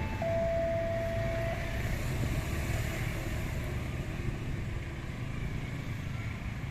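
Railway level-crossing warning alarm sounding its two alternating tones, which stop about a second and a half in, over a steady rumble of passing traffic.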